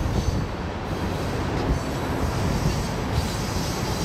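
Union Pacific freight cars rolling slowly around a curve, a steady low rumble with irregular clanks from wheels and couplers. Now and then a faint high squeal comes from the wheel flanges.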